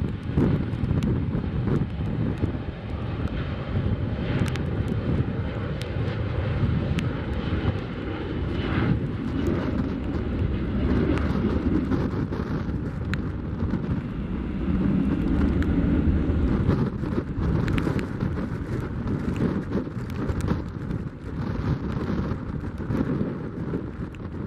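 Boeing 737-400's CFM56 jet engines running as it passes, a steady rumble mixed with heavy gusting wind buffeting the microphone.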